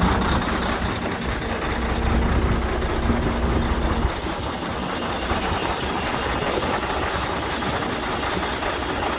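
2006 Volvo truck's diesel engine idling roughly with a miss, missing real bad. The fault codes point to injector number 6. The deep low rumble drops away about four seconds in, leaving a lighter, uneven idle.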